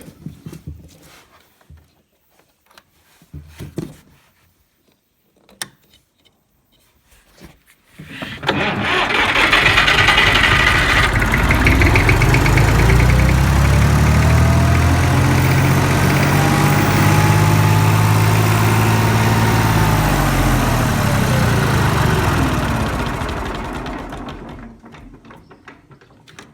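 A few knocks and clicks, then the Perkins three-cylinder diesel of a 1954 Bristol Taurus bulldozer cranks and fires about eight seconds in, climbs straight up to high revs and holds there, then winds down and stops near the end. It will not idle and runs only at full revs, which the owner suspects is a fault in the CAV injector pump after the machine ran out of diesel.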